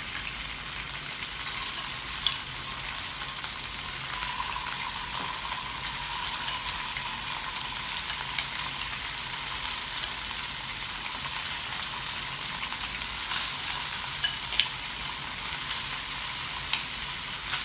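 Marinated chicken pieces sizzling as they shallow-fry in hot oil in a frying pan, more pieces being laid in one by one. A steady hiss, with a few light clicks as pieces and the spatula touch the pan.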